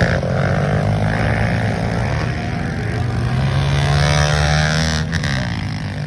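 Pit bike engines running hard during a race, the engine note rising and falling with the throttle.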